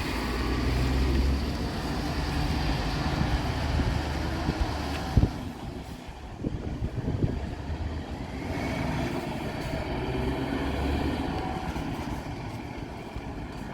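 Scania R580 truck's V8 diesel engine running, with a sharp knock about five seconds in; the sound dips after the knock, rises again later, then fades.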